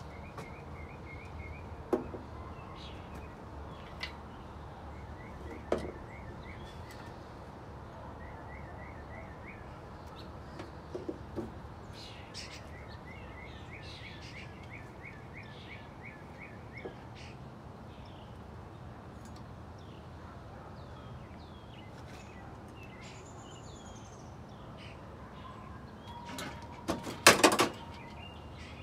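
A songbird chirping in short repeated trills over steady outdoor background noise. Knocks come from work on an engine hanging in a Mitsubishi Lancer's engine bay: a few scattered ones, and a loud brief clatter of knocks near the end.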